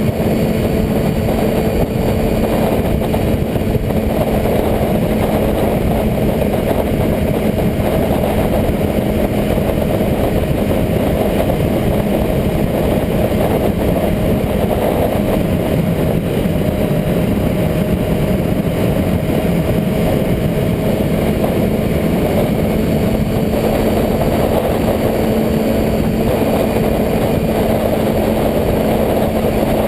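Motorcycle engine running at a steady, held pitch under a loud, constant rushing noise. The pitch sags slightly about halfway through and then comes back up.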